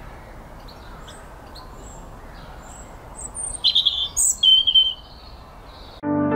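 Small birds chirping and singing over a faint outdoor background, with a louder run of whistled phrases between about three and a half and five seconds in. Music cuts in suddenly near the end.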